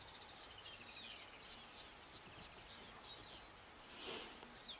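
Faint birdsong: many short, downward-sliding chirps from birds calling over a quiet background, with a brief soft hiss-like noise about four seconds in.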